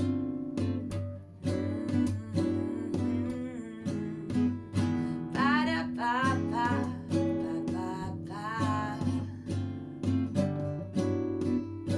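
Acoustic guitar playing a song, with a voice singing a few long, wavering notes in the middle.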